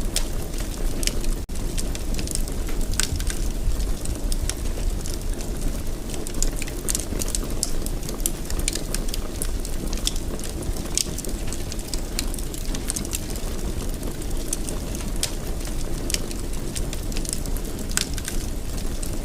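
Wood fire burning in a fireplace: a steady low rumble of flame with frequent sharp crackles and pops at irregular intervals. The sound cuts out for an instant about a second and a half in.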